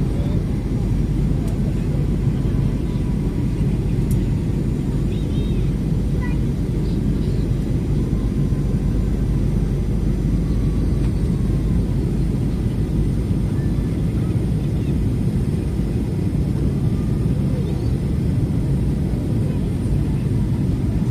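Steady low rumble of jet engines and rushing air heard inside the cabin of a Boeing airliner on its way in to land.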